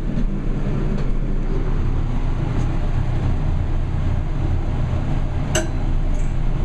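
Gemco elevator car starting off and travelling, a steady low rumble that swells about a second and a half in. About five and a half seconds in comes a single sharp click with a brief ring, the elevator's floor indicator clicking.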